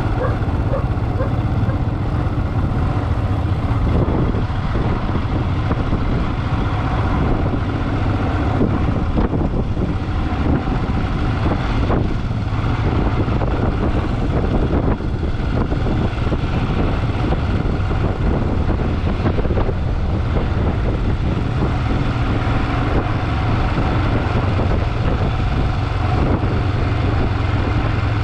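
Motorcycle engine running steadily under way, mixed with road and wind noise.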